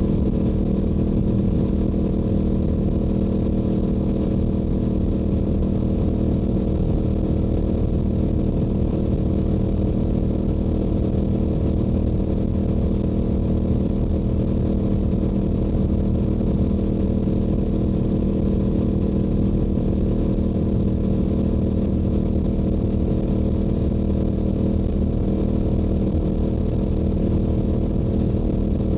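Yamaha YZF-R7's parallel-twin engine running through its stock exhaust at a steady highway cruise, holding an even pitch without revving up or down.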